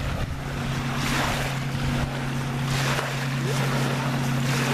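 Steady low drone of a motorboat engine, with wind rushing on the microphone and water noise that swells now and then.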